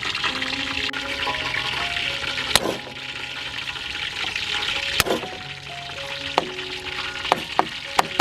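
Background music over food sizzling in hot oil; the sizzle is stronger for the first few seconds, then drops back. Two sharp knocks, one near the middle and one later.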